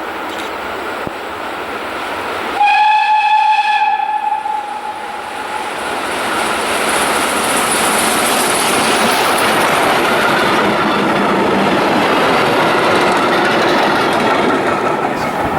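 PKP Ol49 steam locomotive sounds one whistle blast lasting about a second and a half, about three seconds in, over the steady rush of the approaching train; the rushing noise of the train grows louder and stays loud as it passes, then cuts off suddenly.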